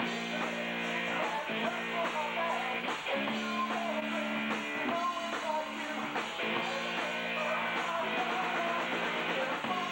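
A high-school rock band playing a song: held guitar chords that change every second or two, with a wavering melody line on top.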